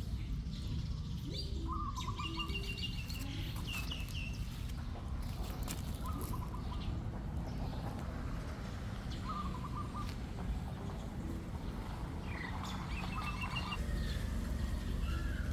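Short trilled chirping calls, repeated every few seconds, over a steady low rumble.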